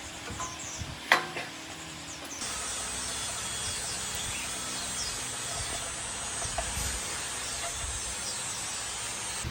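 Outdoor ambience of birds chirping and insects buzzing, with a single sharp knock about a second in; from about two and a half seconds in a steady high insect drone sets in suddenly under the birdsong.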